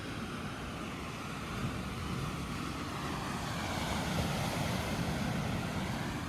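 Steady rushing noise of ocean surf and wind, swelling a little about halfway through.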